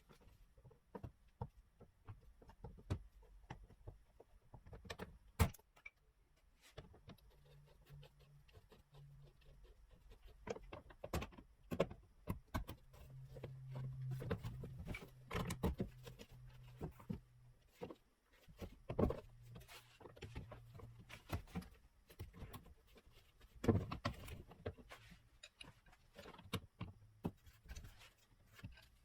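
Scattered metallic clicks and clinks of hand tools or parts being handled, with a few sharper knocks and a low hum that comes and goes in the middle.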